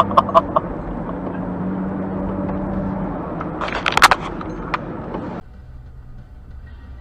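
Vehicle running with steady engine and road noise, then a cluster of loud, sharp impacts about four seconds in, a car collision. The noise drops away abruptly soon after.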